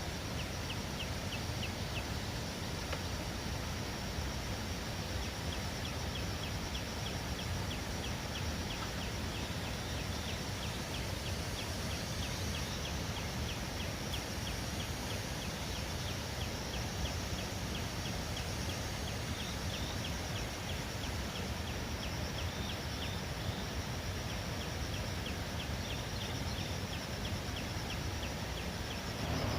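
Steady outdoor background noise with a faint, high-pitched ticking call repeating about three times a second.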